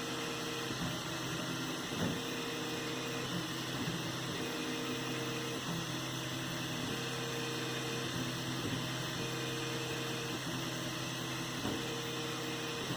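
A 3D printer running a print: a steady fan hum, with a motor tone that starts and stops every second or two as the print head moves.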